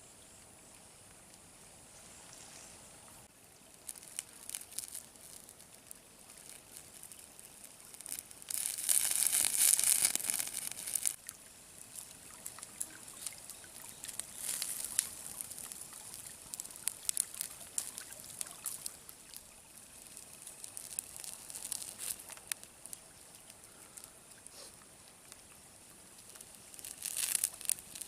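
Water pouring for about two seconds, about a third of the way in, among scattered small clicks and rustles.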